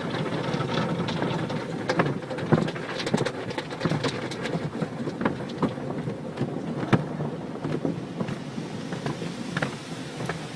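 Car-wash water spraying and splattering, a steady hiss of spray with many irregular sharp drips and splats.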